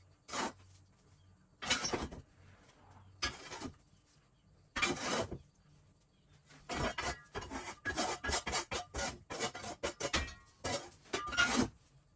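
Irregular short scrapes and clinks of things being handled, a few spread apart at first, then a quick run of them in the second half.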